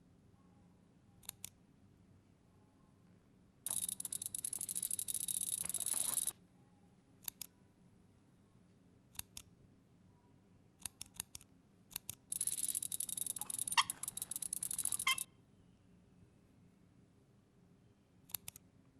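Two bursts of rapid mechanical clicking, each lasting two to three seconds, with scattered single and paired clicks between them.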